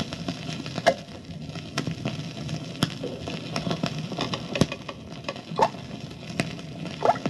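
Water droplets dripping one at a time, each a short plop with a quick upward pitch flick, about one a second over a low steady hum: the water-torture drip sound effect.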